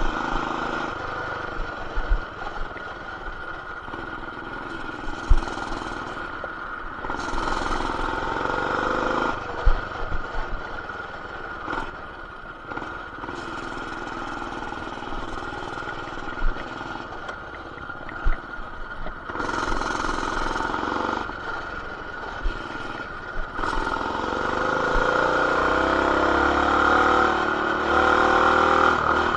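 BT200X mini bike's small single-cylinder engine, breathing through an aftermarket intake, header and RLV exhaust, running as it is ridden. The throttle opens and closes in spells, and the pitch rises near the end as it accelerates. Occasional short knocks are heard from bumps.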